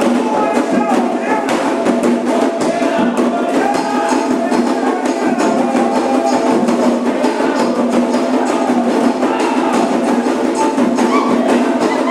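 Candomblé ceremonial music: singing over hand drums and a struck bell-like percussion at a steady, driving beat.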